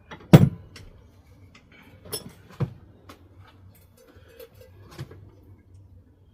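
A heavy metal clunk, followed by a few lighter knocks and clicks, as the Kawasaki VN750 V-twin engine is let down out of the motorcycle frame.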